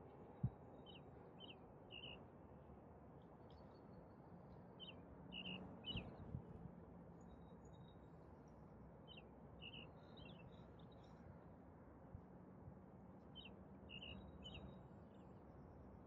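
Faint songbird repeating a short song of three or four high notes about every four seconds, over a steady low city hum. A sharp click sounds about half a second in, and a dull thump around six seconds.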